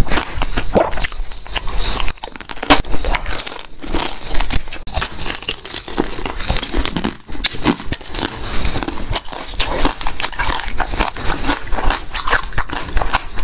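Close-miked biting and chewing of crunchy frozen fig-shaped fruit: a dense run of crackling crunches with two short pauses.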